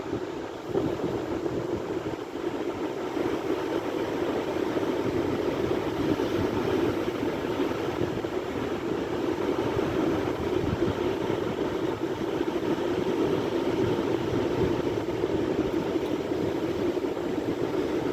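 Sea surf: a steady rushing noise of waves without distinct single breaks.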